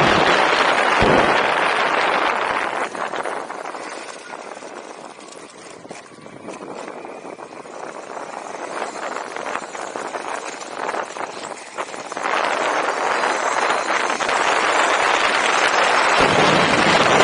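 Wind buffeting the microphone, a loud rushing noise that dies down for several seconds midway and then gusts back up near the end.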